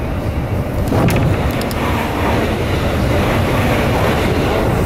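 Interior running noise of an electric commuter train, a steady rumble. About a second in, a train passing the other way close alongside adds a sudden rush of air, a few sharp clicks and a louder rumble that lasts through the rest.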